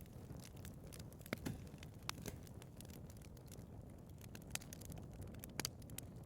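Wood fire burning in a fireplace: a low steady rumble of flames with scattered sharp crackles and pops, the strongest pops a little over a second in and again near the end.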